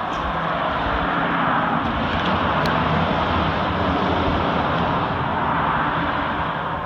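Passing road vehicle: a steady rush of tyre and engine noise that builds, holds, and eases off near the end.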